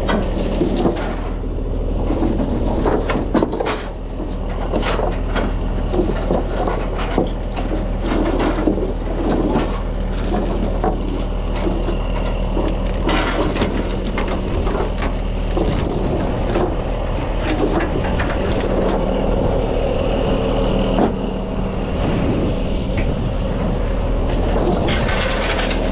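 Heavy truck engine idling steadily, with repeated sharp metal clicks and clanks as chain binders securing the load are loosened.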